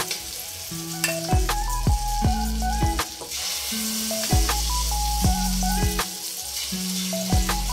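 Hot oil sizzling in a wok as an eggplant-and-egg omelette mixture is spooned and poured in, the sizzle growing louder about three seconds in. Background music with held bass notes and a repeating melody plays over it.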